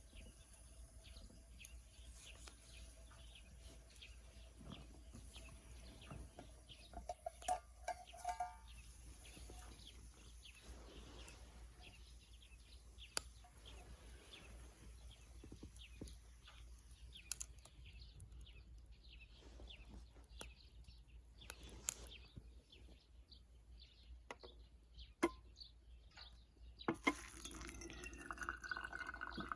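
Small wood fire crackling in a Sierra stove, with a few knocks of gear being handled.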